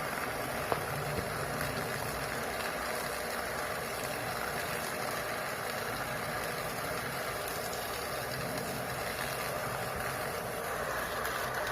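Bolzano 1 hp shallow well water pump running steadily under load.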